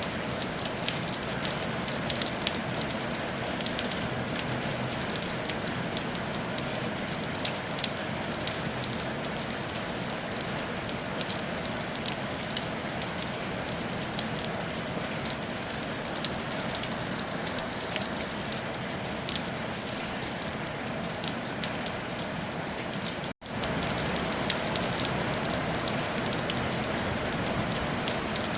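Steady rain falling on a tile roof, a dense hiss filled with many small drop impacts. The sound cuts out for an instant about three-quarters of the way through, then carries on unchanged.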